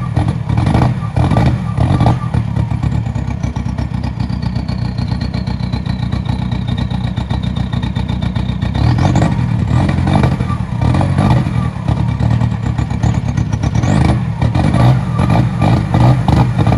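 Volkswagen Jetta 1.9 TDI four-cylinder turbodiesel running cold, with a steady diesel clatter. It is revved up a few times, most clearly about halfway through and near the end.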